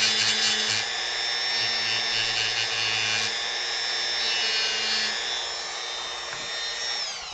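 Dremel rotary tool running at speed with a steady high whine while its bit grinds into wood. Near the end it is switched off and its whine falls away as the motor spins down.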